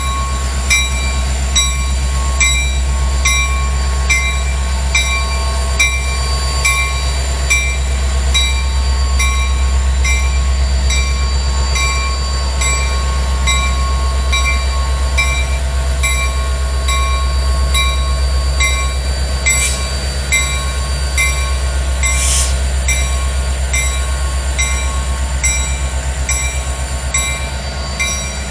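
Lake State Railway ballast work train rumbling steadily as it passes. A bell rings over it at an even pace, about four strokes every three seconds.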